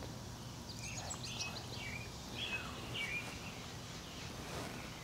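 Birds chirping: short, quick calls, most of them between about one and three seconds in, over a low steady background hum.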